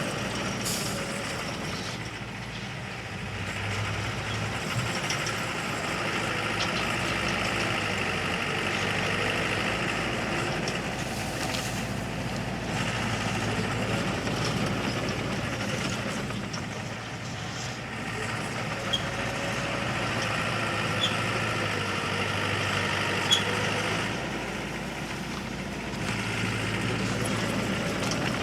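Diesel engine of heavy earthmoving machinery running under work, swelling and easing every few seconds, with a few short sharp knocks in the second half.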